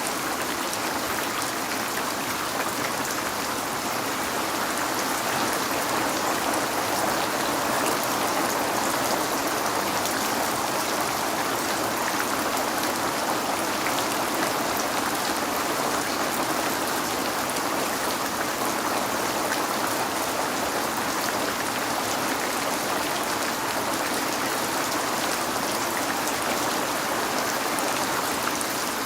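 Steady rain falling on a window, an even hiss of many drops with no thunder.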